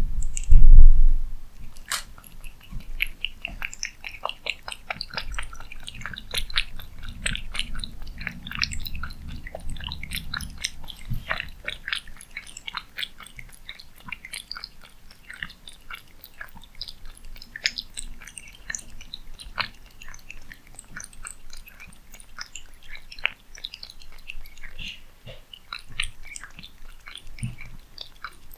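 Cat eating, a quick irregular run of chewing and biting clicks. A loud thump about a second in.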